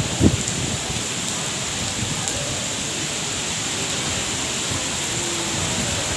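Steady rain falling, a constant even hiss, with one short low thump just after the start.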